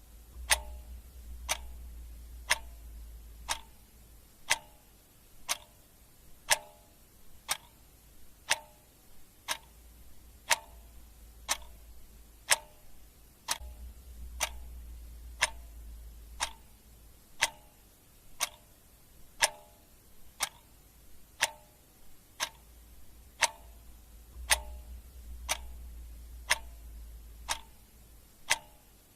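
Clock ticking steadily about once a second, each tick a sharp click with a brief ringing tone. A low rumble underneath swells and fades a few times.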